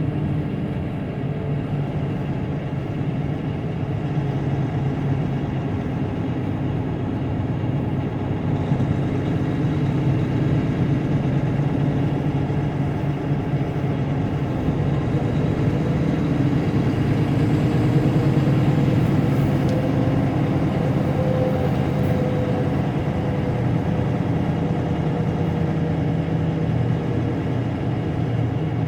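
Tractor-trailer's diesel engine running steadily on the highway, with tyre and road noise, heard from inside the cab.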